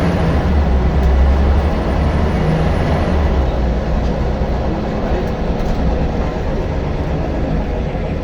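Scania L94UB single-decker bus engine running, a steady low drone that eases off slightly in the second half.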